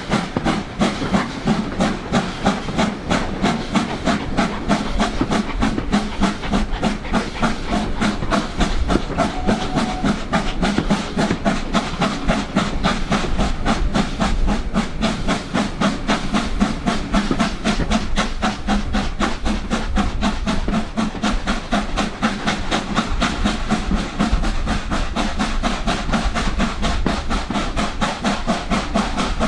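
LMS Stanier Black Five 4-6-0 steam locomotive, a two-cylinder engine, working steadily with a fast, even rhythm of exhaust beats and steam hiss.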